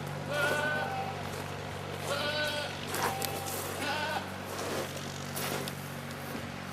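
Goat bleating, three calls about a second and a half apart.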